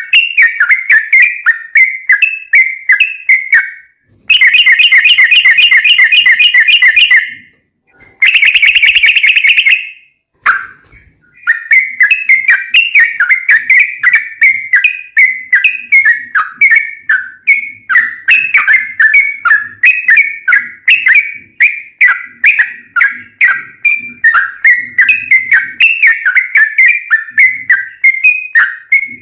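Yellow-vented bulbul (trucukan) singing loudly: quick bubbly, chattering phrases, broken twice by long, very rapid rolling trills, one a few seconds in and another just after it, before the chattering phrases resume.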